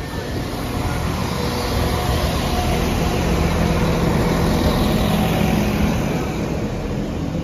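A Northern Class 195 diesel multiple unit passing close by over a level crossing: its underfloor diesel engines run steadily under the rumble of wheels on rail. The sound swells to its loudest a few seconds in, then eases slightly as the train moves away.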